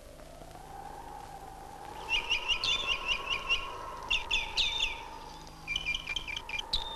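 Small birds chirping in quick runs of short, high notes, in three bursts starting about two seconds in. Under them a steady, siren-like tone slowly wavers up and down in pitch.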